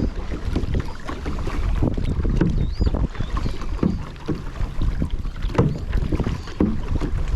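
Water splashing and sloshing around a paddled kayak, in many short irregular splashes, over a steady low rumble of wind on the microphone.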